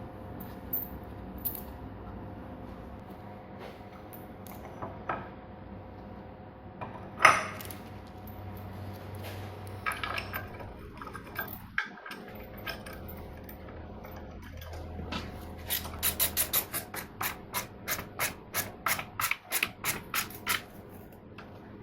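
Metal tools and parts being handled during assembly, with scattered clicks and knocks, one sharp clank about seven seconds in, and a run of quick clicks, about four or five a second, near the end.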